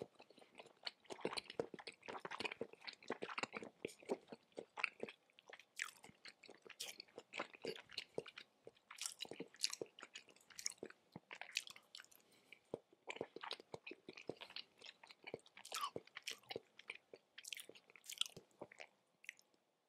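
Close-miked chewing of raw tuna sashimi: many short mouth clicks, nearly continuous, with a brief pause about two thirds of the way through.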